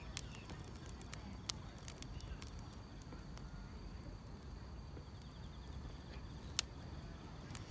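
Wood fire crackling, with sharp pops scattered through and the loudest about six and a half seconds in, over a low steady rumble. Faint steady chirping of grass insects runs underneath.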